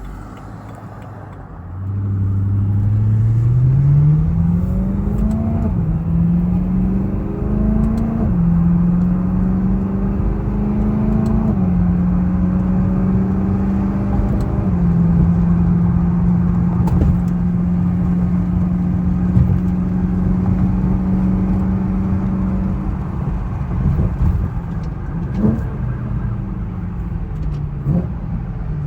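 BMW E90 M3's 4.0-litre V8 pulling away and accelerating through the gears: its pitch rises and drops back at each of four upshifts, then holds steady at a cruise and falls away near the end as the car slows. Road and tyre rumble runs underneath. The engine is still cold.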